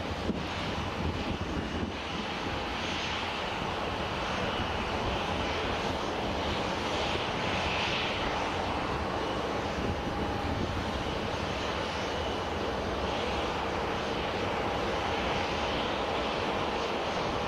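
Boeing 737-800 jet engines (CFM56-7B turbofans) running steadily: an even rush of engine noise with faint steady high tones.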